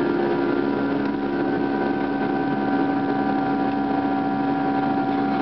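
Steady engine drone with several constant humming tones over a rushing noise, holding an even level throughout.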